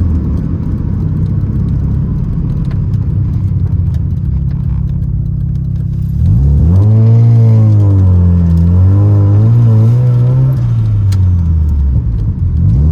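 A 1988 Mazda RX-7's 13B rotary engine with the car under way. It runs at a steady low drone for about six seconds, then the revs climb under acceleration, rise and dip for a few seconds, and fall away near the end.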